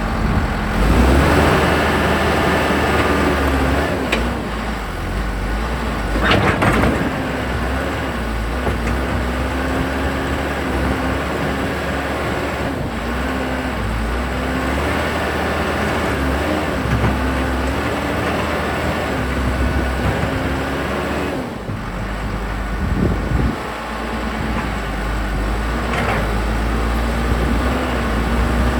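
1998 Case 580 Super L Series II backhoe's diesel engine running, its speed dipping and rising as the hydraulics are worked. A few sharp clunks sound over it, the loudest about six seconds in.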